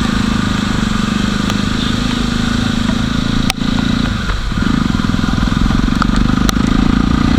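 Jawa motorcycle's single-cylinder engine running steadily under way, its note dropping and coming back up about four seconds in. A few sharp clicks sound over it.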